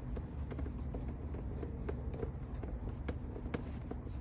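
Light, irregular clicks and taps, about two or three a second, as small parts are turned and fitted by hand on a truck, over a steady low rumble.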